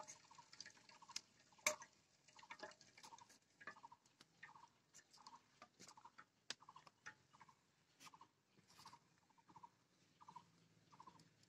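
Near silence with a bird's faint short calls repeated about twice a second and scattered soft clicks.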